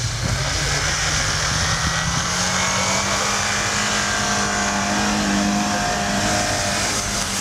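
Lada Niva engine running hard at high revs as it climbs a snowy slope with its wheels spinning and throwing up snow. Its pitch rises slowly over the first few seconds, then holds steady.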